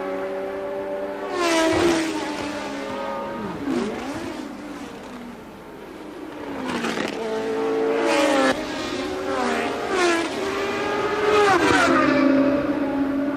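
1982 Formula One race cars' high-revving engines going by on track. The engine note rises and then drops sharply about five times as cars pass one after another.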